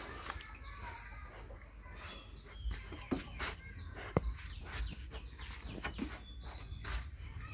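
Chickens clucking in short calls, with scattered light knocks and rustling.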